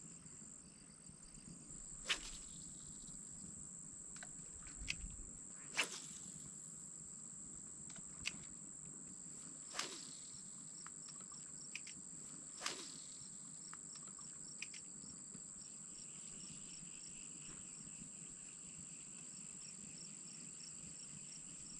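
Crickets and other night insects trilling steadily in a high, continuous tone, with a second pulsed chirping joining partway through. A few sharp clicks or knocks break through it, about four seconds apart.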